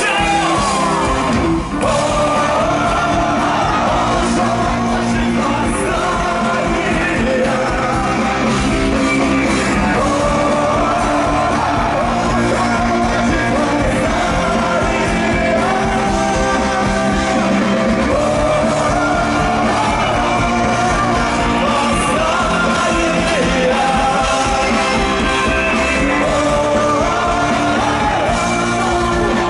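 Live rock band playing a song with singing, some of it close to shouting, over the instruments.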